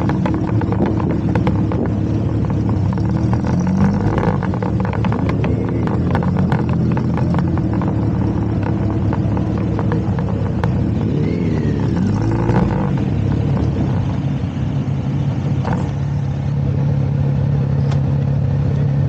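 Motorcycle engine running steadily on the road, its note shifting in pitch a few times with throttle and gear changes, with other vehicles sweeping past about a third and two-thirds of the way in.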